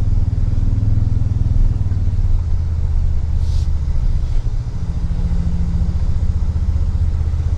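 Toyota Tundra's engine running at low trail speed, a steady low rumble heard from inside the cab. A brief hiss comes about three and a half seconds in.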